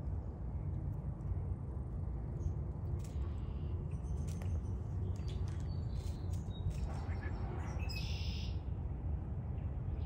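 Small birds giving short, high chirps now and then over a steady low rumble of outdoor background noise.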